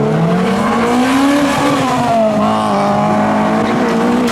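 Car engines revving as modified cars pull away. One engine's note rises over about the first second and a half, while another holds a steady note.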